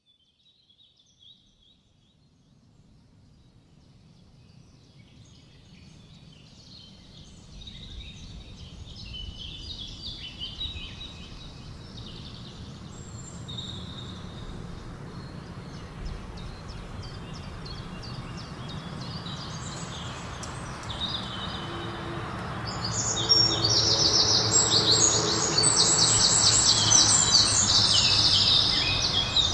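Outdoor ambience of birds chirping over a low rumble, fading in from silence and growing steadily louder; the chirping is busiest and loudest near the end.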